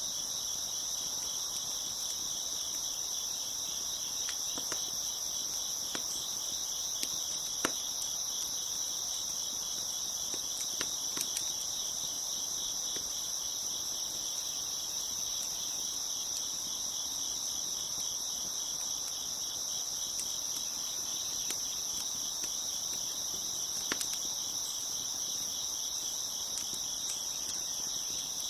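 A dense chorus of crickets chirping steadily, with a few isolated sharp pops and crackles from a wood fire, the loudest about eight seconds in.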